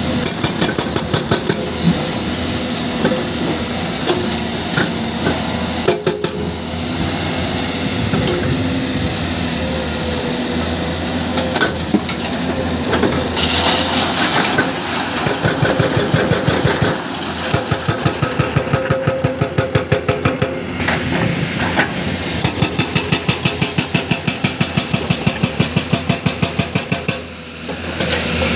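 Hydraulic breaker on a Komatsu PC210 excavator hammering rock, its diesel engine running under load; in the second half the blows settle into a fast, even pounding that pauses briefly near the end.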